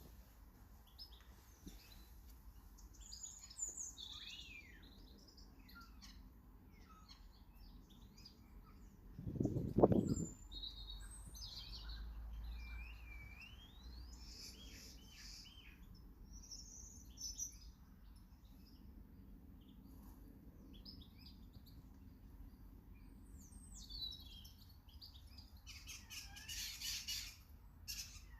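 Small garden birds chirping and singing, many short calls and warbling phrases overlapping. About ten seconds in there is a brief low rumbling thud, the loudest sound, and near the end a burst of rapid chattering.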